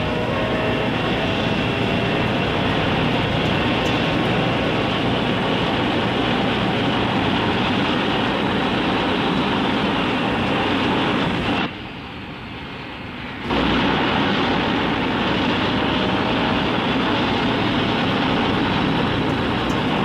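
Sound effect of International Rescue's Mole drilling vehicle boring down through the earth: a loud, steady mechanical roar. It turns muffled and quieter for about two seconds midway, then comes back.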